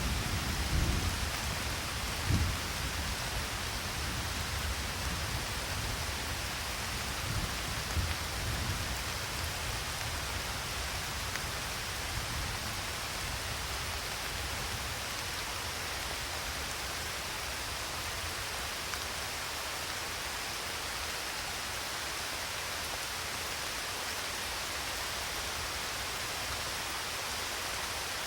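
Steady rain hissing, with a low rumble of thunder dying away over the first several seconds.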